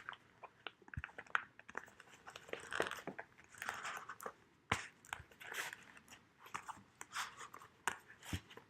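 Handling noise of a fabric notebook cover being worked off an A6 notebook: bursts of rustling and scraping with a few sharp clicks and taps.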